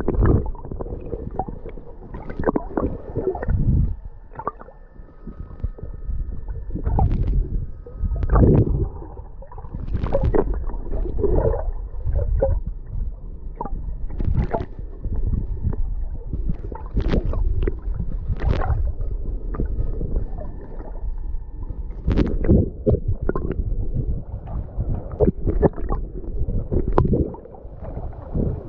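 Sea water sloshing and splashing close to the microphone, with irregular gurgles and splashes.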